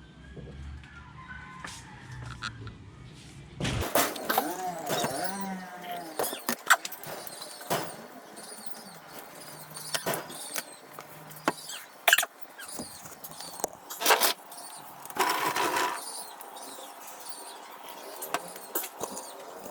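Birds chirping, with chickens calling and several sharp clicks; a low hum runs under the first few seconds.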